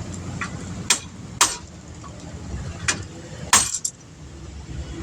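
Hammer striking metal: four sharp, clinking blows spaced out across a few seconds, over a faint low rumble.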